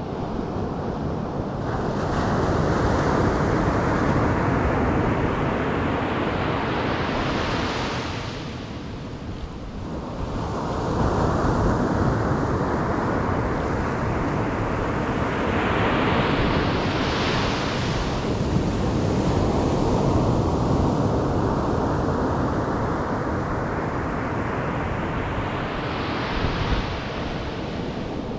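Ocean surf: waves breaking and washing up the beach, three in turn, each surge building and growing brighter before falling away, about every nine or ten seconds.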